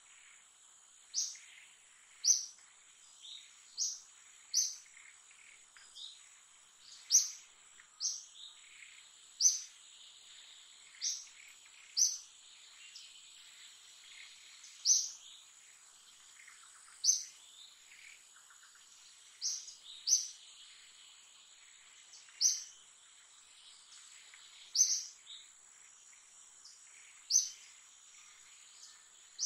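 A bird repeating a short, sharp, high-pitched chirp every one to three seconds at an uneven pace, over a faint steady high insect drone.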